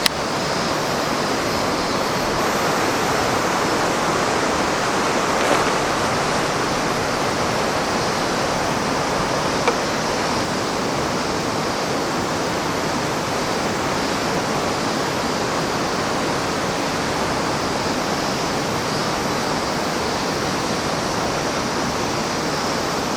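Steady rushing of a mountain river flowing over rocks, with a couple of small clicks.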